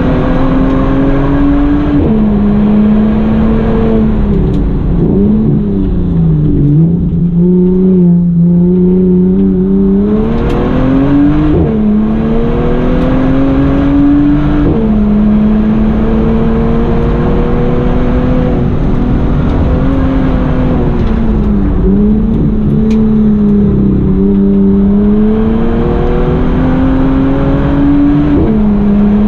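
Bentley Continental GT's twin-turbo W12 engine under hard driving, heard from inside the cabin: its pitch climbs steadily under acceleration, drops suddenly at several gear changes, and sags more slowly where the throttle is eased for corners.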